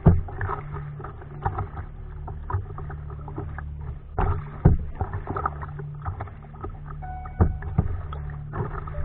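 Kayak paddling on the sea: water splashing and sloshing against the hull over a steady low hum. A few sharp knocks stand out, one at the very start, one about halfway through and one near the end.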